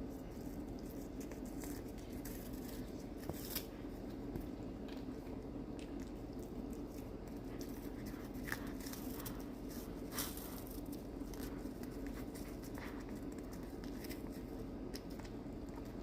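A cat licking and chewing a lollipop-style treat on a stick, with faint small clicks scattered through, over a steady low hum.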